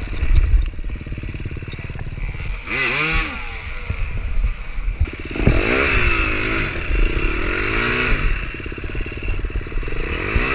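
Dirt bike engine revving hard in repeated bursts, its pitch rising and falling, as the bike labours up a steep, ripped-up rock climb. A few sharp knocks sound over the engine.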